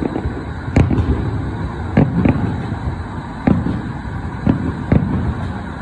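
Distant fireworks going off: about six sharp bangs at uneven intervals, over a steady rumble of road traffic.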